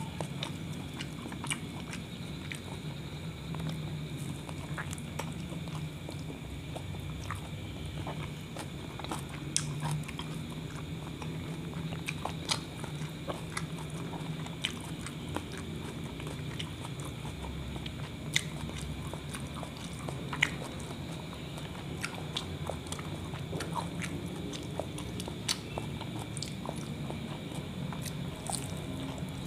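A person chewing and biting into a kebab wrap of meat, vegetables and sauces, with small wet mouth clicks at irregular moments. A steady low hum runs underneath.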